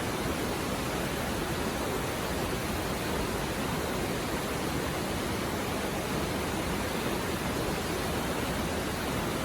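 Shallow mountain river babbling over rocks: a steady rush of flowing water with no change.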